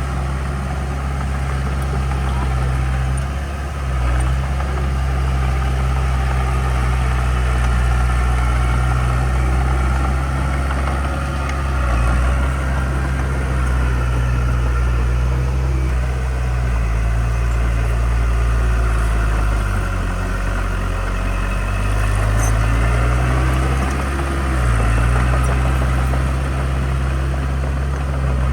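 Diesel engine of heavy earthmoving equipment running steadily, its note dipping and shifting several times past the middle as the load changes.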